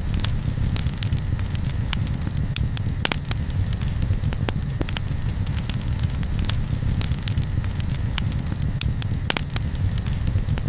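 Campfire crackling, with many sharp pops and snaps over a steady low rumble. A short high chirp, like a cricket's, repeats every second or so.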